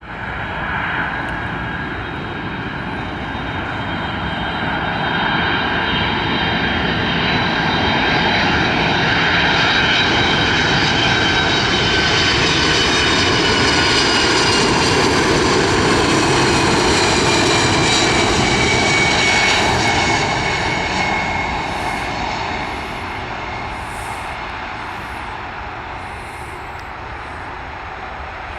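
Twin jet engines of a Boeing 767-300 airliner coming in to land, a rumble with a high whine. It grows louder to a long peak as the plane passes, the whine falls in pitch, and the sound then fades.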